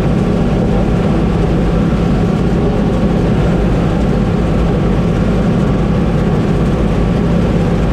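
Combine harvester running steadily, its engine holding a constant drone.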